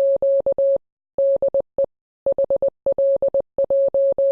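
Morse code beeps: a single steady tone keyed on and off in a rapid pattern of short and long beeps, with brief pauses between groups.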